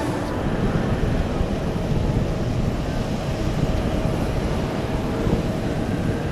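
KC-46A tanker's twin jet engines, a steady low rumble as the aircraft comes in to land.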